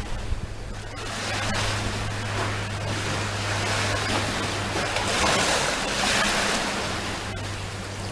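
Sea waves breaking on the shore: a wash of surf that swells about a second in, is loudest around the middle, and eases off near the end. A steady low hum runs underneath.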